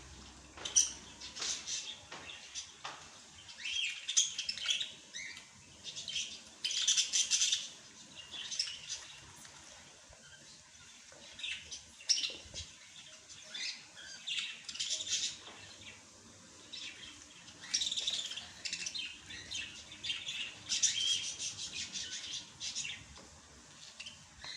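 Small songbirds chirping and twittering in quick, irregular bursts of high calls, with short pauses between the bursts.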